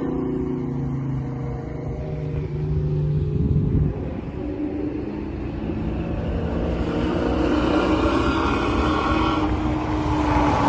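Car engine running hard: a steady note that drops off about four seconds in, then climbs steadily in pitch as it accelerates again.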